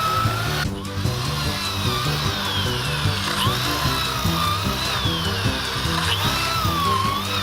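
Cordless drill boring holes into an oak log for shiitake spawn plugs, its whine dipping and rising in pitch as it works, with background music playing.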